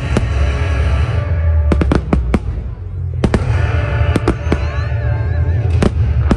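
Fireworks going off in quick runs of sharp bangs and crackles, over loud music with a heavy bass.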